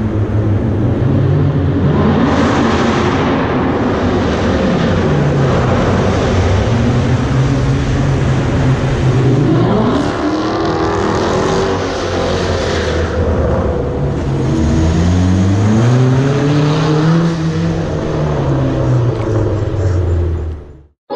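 Car engine running loudly and being revved, its pitch climbing and falling back several times, with a longer rev up and down in the last few seconds; the sound cuts off suddenly at the end.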